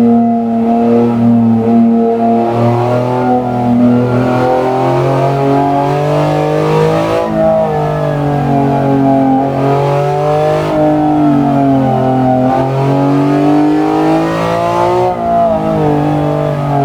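BMW S54B32 3.2-litre naturally aspirated inline-six running at moderate revs, its note rising and falling slowly several times.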